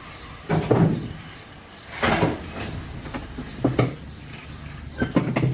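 Metal objects clanking and clattering, in four separate bursts about a second and a half apart.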